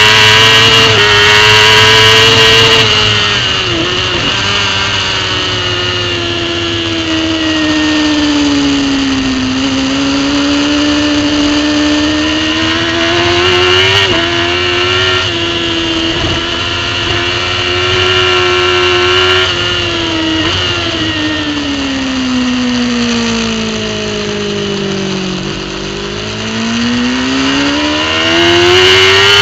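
Racing superbike engine heard from an on-board camera, pitch rising and falling as the revs change. The revs drop in long slow falls around nine seconds in and again around twenty-five seconds in, with short breaks near four and fourteen seconds, and climb quickly near the end.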